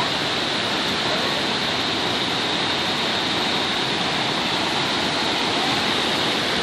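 Steady, unbroken rushing noise with a hiss on top, unchanging in level.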